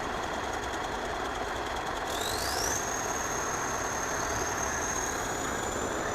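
Heavy machine's engine running steadily, with a high whine that rises in pitch about two seconds in and then holds level.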